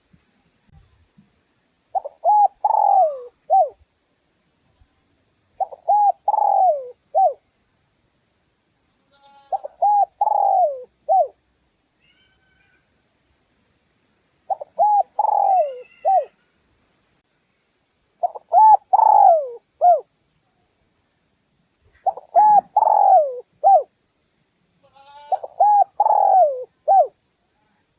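Spotted dove cooing: seven phrases of several hooting coos, each phrase about a second and a half long, repeated roughly every four seconds. It is the spotted dove's urging coo that trappers play as a lure call.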